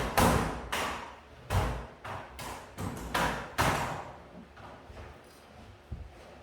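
A quick, irregular run of knocks and thuds, about eight in the first four seconds, some with a short scraping tail, then it goes quiet.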